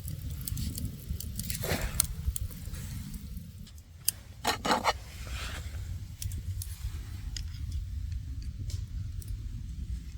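Scattered light clinks, clicks and scrapes of small hard objects being handled, loudest in a short cluster about halfway through, over a steady low rumble.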